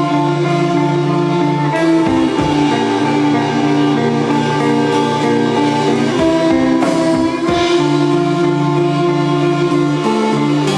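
Live band playing: held guitar chords that change every few seconds, with drums striking a few times.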